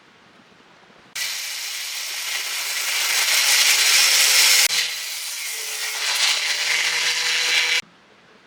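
Power tool running on the steel of an old suspension spring. It starts suddenly about a second in, dips briefly about halfway and cuts off suddenly near the end, with a steady low hum under a loud hiss.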